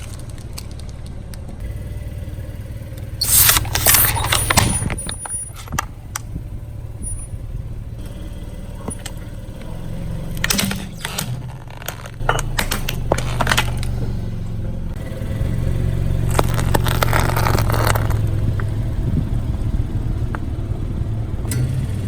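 Car engine running slowly while its tyre rolls over objects, with several bursts of crackling and scraping as things crush under the tyre.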